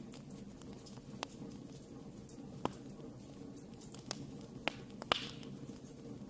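Wood fire burning in a fireplace, a steady low rumble with scattered sharp crackles and pops, the loudest a little past the five-second mark.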